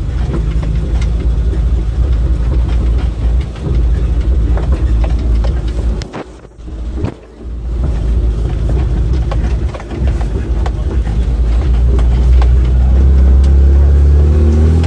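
Off-road car's engine running as it drives over a rough dirt track, with frequent knocks and rattles from the body. The sound drops away briefly twice a little after six seconds, and the engine grows louder and steadier near the end.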